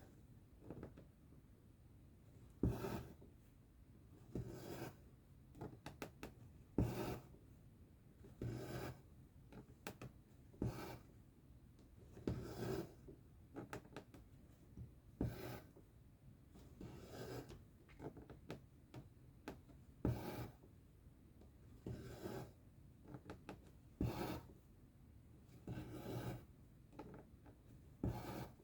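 Needle and thread being pulled through cross-stitch fabric: repeated rasping strokes about every two seconds, some with a sharp click as the needle pierces.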